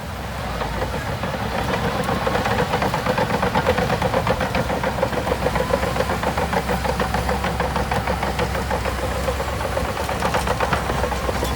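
Diesel engine of a heavy earthmoving machine running with a fast, even knocking pulse, swelling slightly over the first second.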